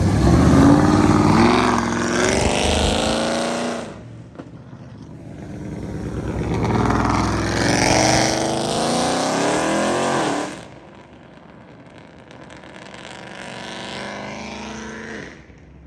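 Car engines accelerating hard, their pitch climbing as they rev up through the gears. There are two loud runs, each cutting off abruptly, followed by a fainter one.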